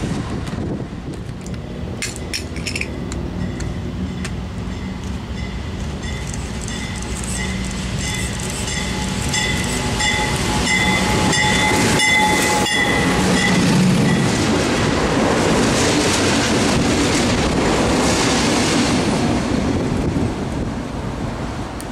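Diesel freight locomotive approaching and passing close by with its engine running, then the train's cars rolling past with their wheels clacking over the rail joints. Steady high ringing tones sound for several seconds in the middle.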